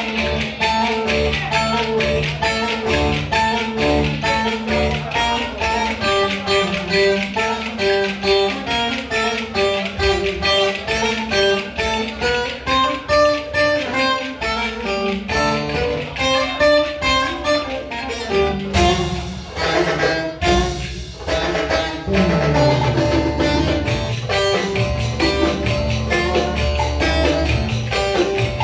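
Instrumental Turkish folk dance music in the Ankara oyun havası style: a plucked string melody with bowed strings over a steady, fast percussion beat.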